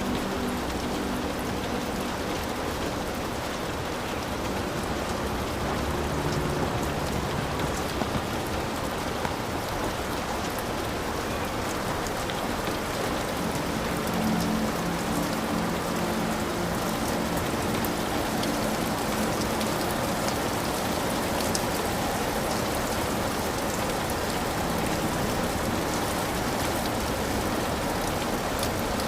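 Heavy rain falling steadily on a hut roof, a dense even hiss with individual drops ticking through it.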